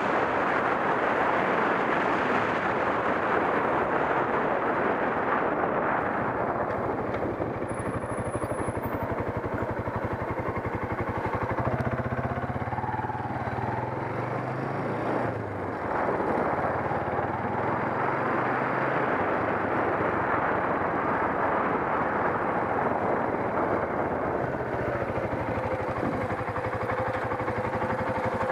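Suzuki ST250 E-type's single-cylinder four-stroke engine running while the motorcycle rides along, mixed with steady wind rush on the onboard camera. The level dips briefly about halfway through.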